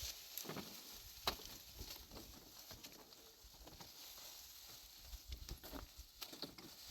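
Faint scattered light clicks and rustles, with one sharper tick about a second in.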